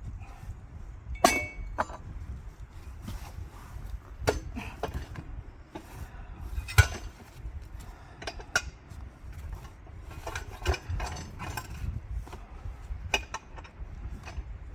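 Irregular metal clinks and knocks, like tools and hardware being handled, with two sharper strikes (the first with a short ring) over a steady low rumble.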